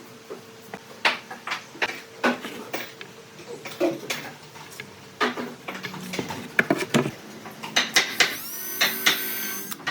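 Woodworking shop sounds: irregular knocks and clicks of wood and hand tools being handled, with a brief power-tool whine near the end.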